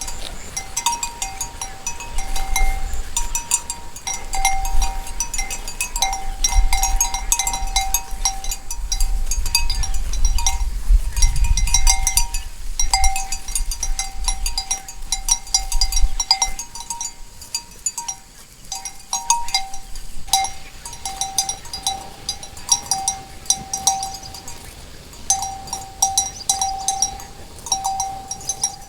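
Cowbells on grazing cows clanking at an uneven pace, one bell tone struck again and again. A low rumble runs underneath until about sixteen seconds in.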